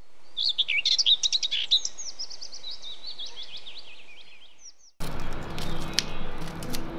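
Songbirds chirping in quick trills, a dawn-chorus effect that fades in at the start and fades out about five seconds in. It then cuts abruptly to outdoor street ambience with a few sharp clicks.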